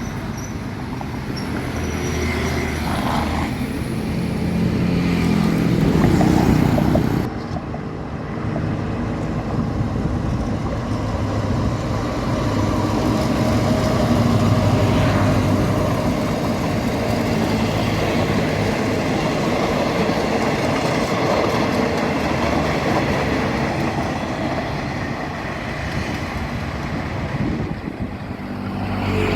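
Alsthom diesel-electric locomotive running with a train, its engine droning with rail noise. The engine note rises a few seconds in, and the sound changes abruptly about seven seconds in.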